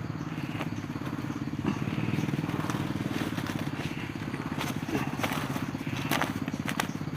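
A small engine running steadily with a fast, even pulse, with scattered crackles and rustles of vegetation.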